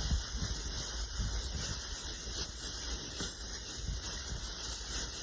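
Steady hiss of outdoor background noise with a low rumble, and a few faint short rustles and taps.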